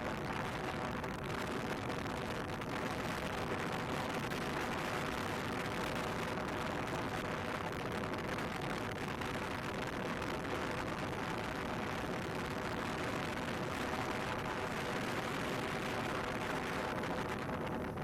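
Wind buffeting the microphone while riding a motorcycle, probably the Yamaha MT-15, with the engine's steady hum underneath at an even cruising speed.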